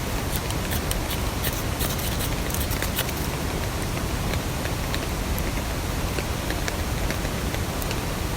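Steady rain with many sharp ticks, crowded in the first three seconds and scattered after.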